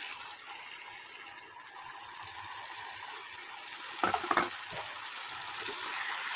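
Sauce and vegetables sizzling in a kadai, with a brief clatter about four seconds in as the fried chicken pieces are tipped in, then a wooden spatula stirring through the sizzle.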